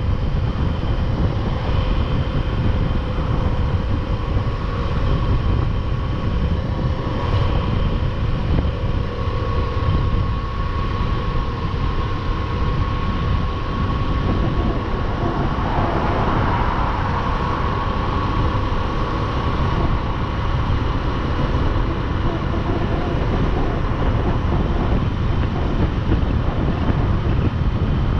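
Motorcycle engine running at a steady cruise, under heavy wind noise on the microphone; a brief swell of noise comes a little past halfway.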